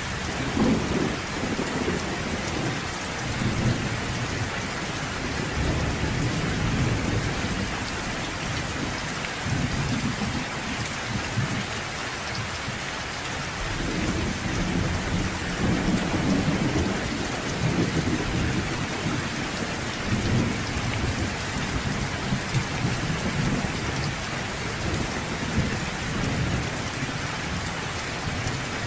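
Steady rain hissing on a surface, with low rolling thunder rumbling in and out in several long swells.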